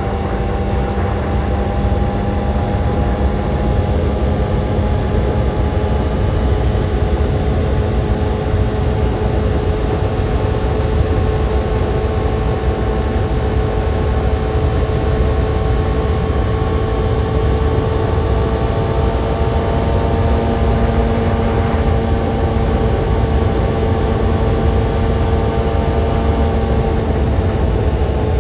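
Kawasaki sport motorcycle engine running steadily at cruise, its pitch creeping slowly higher, over a heavy, even low rumble.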